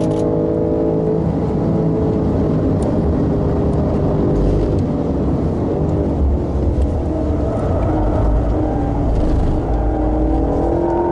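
BMW M5 engine being driven hard on a race circuit, its pitch rising and falling with acceleration and gear changes, heard from inside the cabin over road and tyre rumble.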